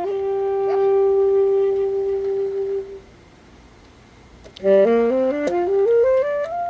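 Alto saxophone holding one long note for about three seconds, then, after a short pause, a quick run of notes climbing and falling.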